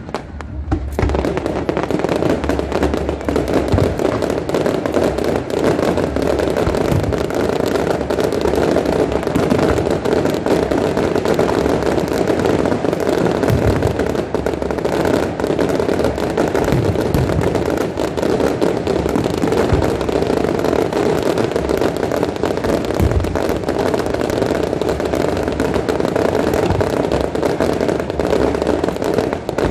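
Fireworks going off continuously: dense crackling and bangs with no pause, after a brief lull right at the start.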